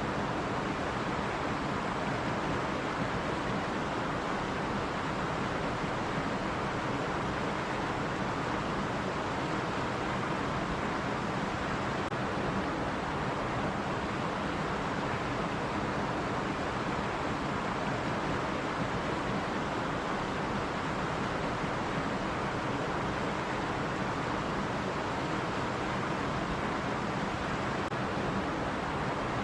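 Running stream: water flowing over rocks in a steady, even rush with no breaks or changes.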